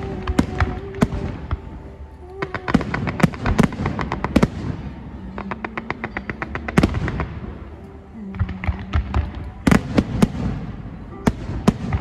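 Aerial fireworks going off: volleys of sharp cracks in quick succession over a low rumble of bursts, with brief lulls between the volleys.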